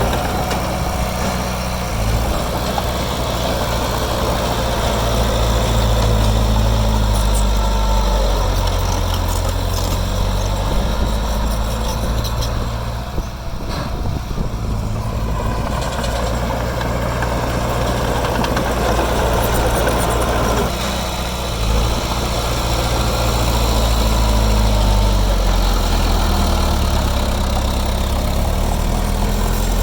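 Heavy diesel earthmoving machinery running, its engine pitch rising and falling several times, with a short lull about halfway through.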